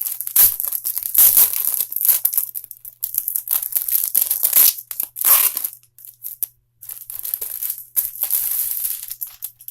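Packaging being torn open and crinkled by hand, in irregular bursts of tearing and rustling with brief pauses.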